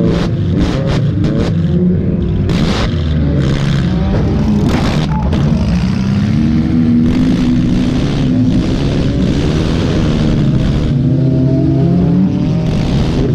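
Race car engine revving hard, its pitch rising and falling with the throttle, heard from on board, with sharp clattering knocks during the first few seconds.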